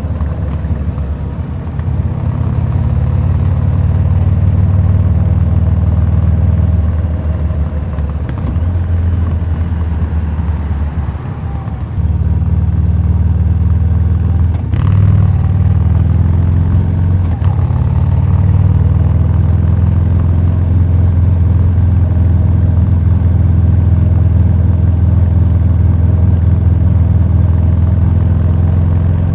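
Harley-Davidson Street 750's liquid-cooled V-twin running through a Vance & Hines slip-on exhaust, a steady low burble. It eases off for a few seconds in the middle and picks up again about twelve seconds in.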